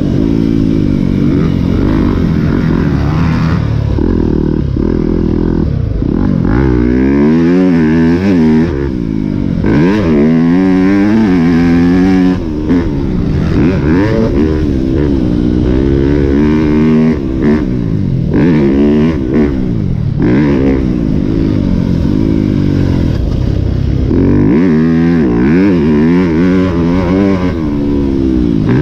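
Yamaha YZ250F four-stroke motocross bike engine being ridden hard, revving up and dropping off the throttle over and over, its pitch climbing in repeated runs and falling between them.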